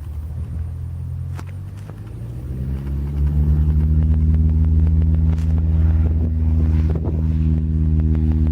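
A nearby engine running, swelling up over the first few seconds and then holding a steady, loud drone, with a few faint clicks.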